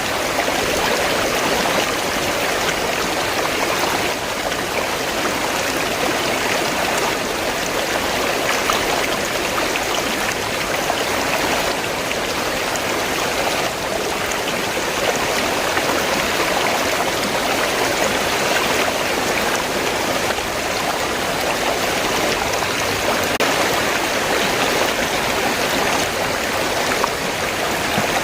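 River water flowing, a steady, even water noise without breaks.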